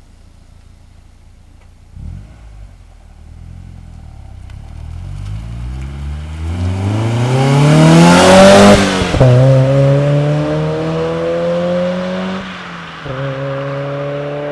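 Mazda Miata NA8's 1.8-litre four-cylinder breathing through a Cobalt cat-back exhaust, accelerating hard. The engine note climbs steadily from about two seconds in to its loudest point, drops sharply at a gear change about nine seconds in, climbs again, and dips briefly at a second shift near the end.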